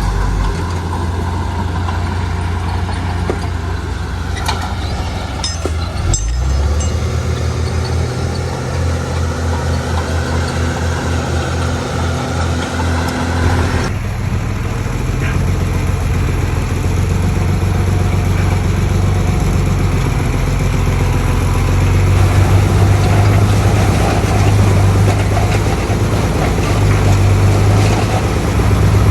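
Heavy diesel engine of construction machinery running steadily, with a few short knocks in the first third. The sound changes abruptly about halfway through.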